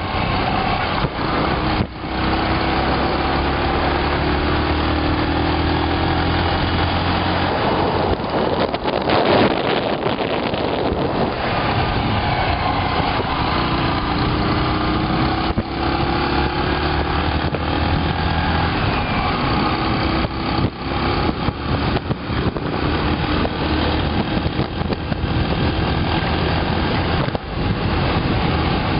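Motorbike engine running while riding along a road, under a steady rush of wind and road noise. The engine pitch rises and falls gently, and the noise swells louder for a few seconds about eight seconds in.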